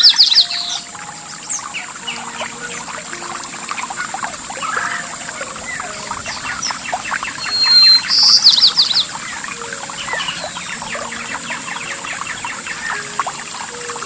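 Chorus of songbirds chirping over trickling water, with one bird's loud phrase, a held whistle followed by a fast trill, at the start and again about eight seconds in.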